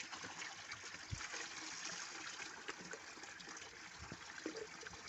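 Water running steadily at the stream where water is fetched, an even rushing sound without breaks.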